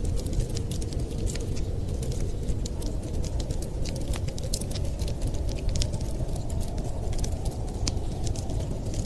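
Wood fire crackling, with many small irregular pops and snaps, over a steady low rumble.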